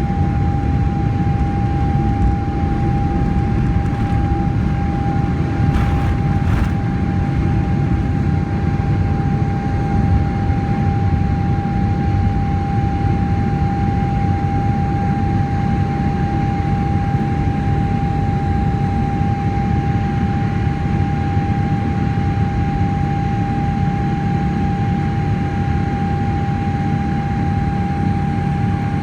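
Steady cabin noise inside a Boeing 777-300ER: a dense low rumble of engines and airflow with one constant whine held over it, unchanging throughout.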